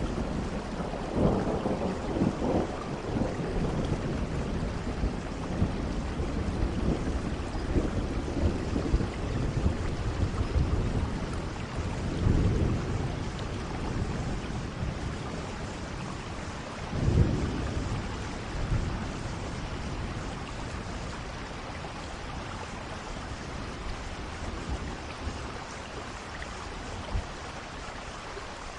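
Steady heavy rain with rolls of thunder: low rumbles swell a few times, the loudest, sharper peal about two-thirds of the way through, then the rain continues more evenly.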